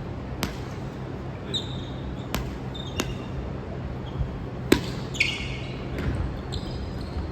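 Sharp knocks every second or two over a steady low background, with a few brief high squeaks. The loudest knock comes a little before the middle.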